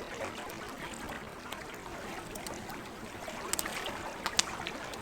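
Campfire crackling, with a few sharp pops in the second half, over the steady lapping and trickling of lake water at the shore.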